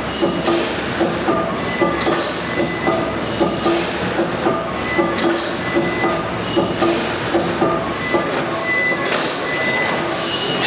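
Large stationary engine running, with an even beat of about two strokes a second and high squealing tones over it.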